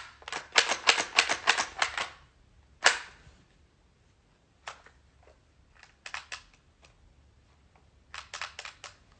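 Bursts of rapid, sharp mechanical clicks from a CO2 BB gun being worked by hand: a fast run of clicks, one loud snap about three seconds in, then smaller bunches of clicks. The gun is not firing.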